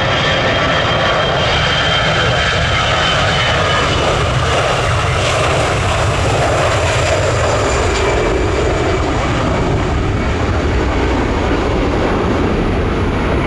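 Jet airliner's engines at takeoff power: loud, steady engine noise with a faint high whine sliding slowly down in pitch.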